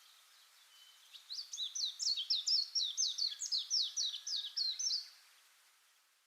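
A songbird singing a fast run of high notes, each sweeping sharply downward, about three or four a second. It starts about a second in, lasts about four seconds over a faint hiss, and then fades out.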